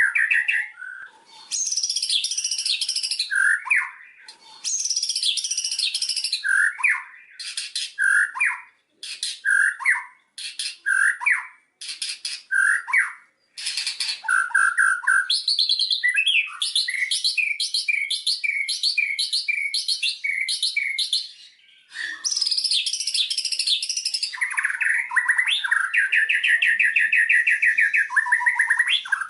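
White-rumped shama singing a varied song. Clear whistled notes alternate with fast high trills and runs of rapidly repeated chattering notes, in phrases separated by brief pauses.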